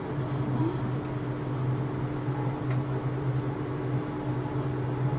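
Steady running noise inside the cabin of a GWR Class 800 train at speed: an even hum with a low drone and a faint higher tone, with a single faint tick about two and a half seconds in.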